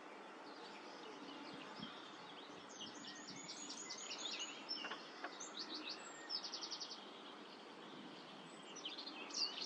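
Small songbirds chirping and trilling over a steady outdoor background hiss, with a fast run of rapid repeated notes a little after the middle and a louder burst of chirps near the end.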